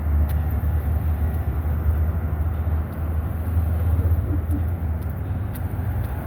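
Street traffic: vehicles passing on a busy road, with a steady low rumble.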